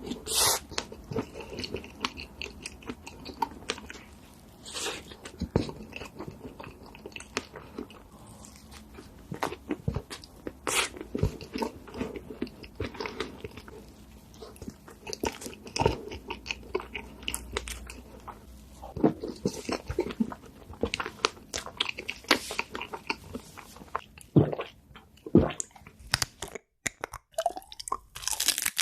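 A person eating up close: crunching bites and chewing, with many short, crisp snaps and clicks at an uneven pace. About three seconds before the end there is a brief break in the sound.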